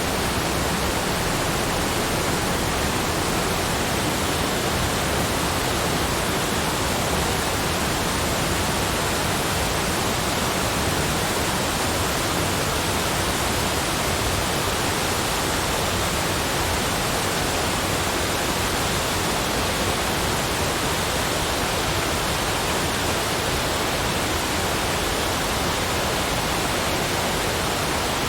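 Steady, unbroken rushing noise, spread evenly from low to high pitch, with no changes or separate events.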